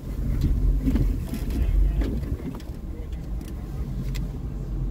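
Jeep Wrangler engine running at low speed while crawling an off-road trail, heard from inside the cab. It is louder for the first couple of seconds, then settles, with a few sharp clicks and knocks scattered through.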